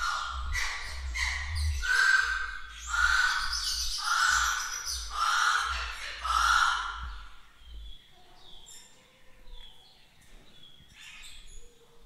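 A bird calling: a series of about seven loud calls, each around half a second long and roughly one a second. Fainter short, high chirps follow for the last few seconds.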